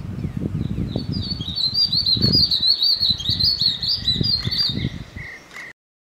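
Small songbirds calling in a rapid run of high-pitched chirps, with a steady higher note near the end, over irregular low rumbling. All sound cuts off abruptly shortly before the end.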